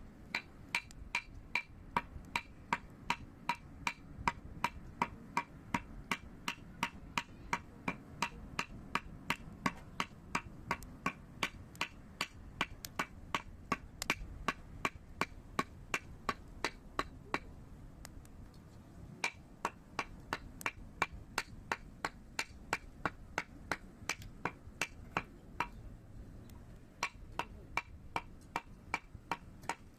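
Sharp, evenly spaced knocks with a slight ring, about two to three a second, stopping briefly twice.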